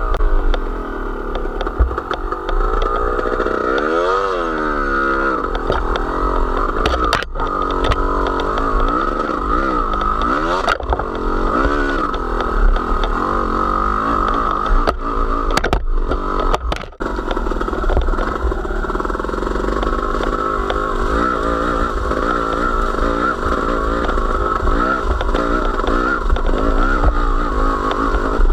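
Small vehicle engine running continuously under load, its pitch rising and falling again and again as the throttle opens and closes while riding.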